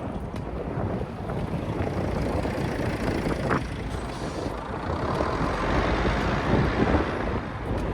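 Wind buffeting the microphone with road and tyre rumble from a bicycle ridden at speed, swelling a little past the middle.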